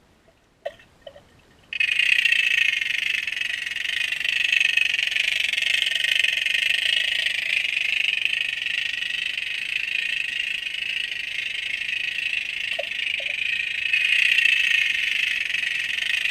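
Dense, rapid underwater clicking that blends into a steady crackling hiss, picked up by a GoPro camera submerged in a lake. It starts suddenly about two seconds in and carries on steadily. The source is unidentified.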